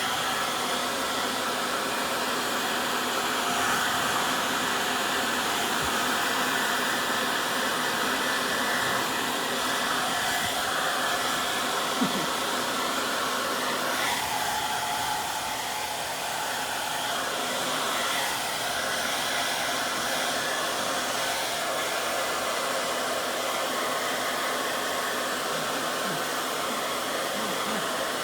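A small electric blower motor running steadily, its airflow making a constant rushing whir; its tone shifts a little about halfway through.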